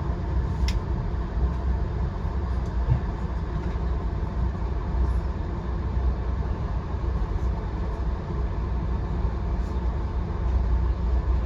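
Steady low rumble of a VIA Rail passenger train rolling along the track, with a few faint clicks, one sharper about a second in.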